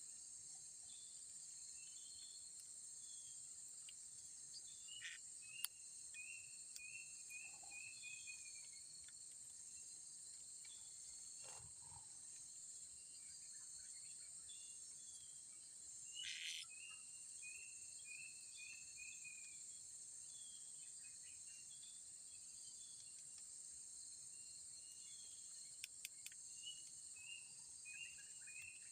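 Steady high-pitched insect chorus, with a bird calling three times, each call a quick run of short falling notes.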